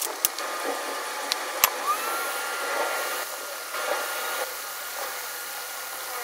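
Steady rush of air from a hot-air rework station, with a few sharp clicks of small tools near the start and a thin steady whistle from about two seconds in.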